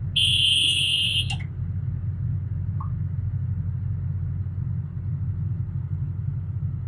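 Heavy construction machine's diesel engine running with a steady low rumble. Near the start, a high electronic warning beep sounds once for about a second.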